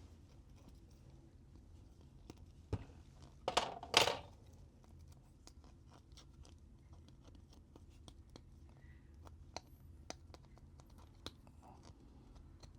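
A thin prying tool scraping and working through softened adhesive inside a smartphone, with scattered small clicks and a louder crackling tear about 3.5 to 4 seconds in.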